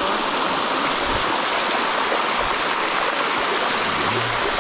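Water of a cascading waterfall running steadily over the rock, a constant rushing with no breaks.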